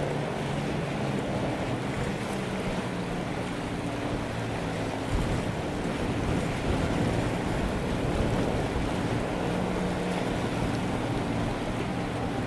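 Strong wind rushing over the microphone, rising and falling in gusts, over a steady low drone from a container ship's engine working hard while it berths.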